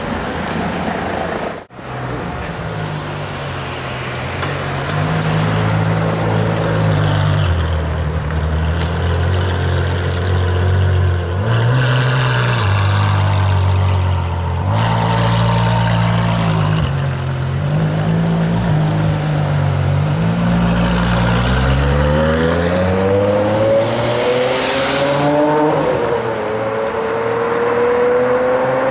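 Ferrari 599 GTO's 6.0-litre V12 idling and being revved, its pitch stepping up and down. Over the last several seconds it accelerates away with a steadily rising pitch that dips briefly once.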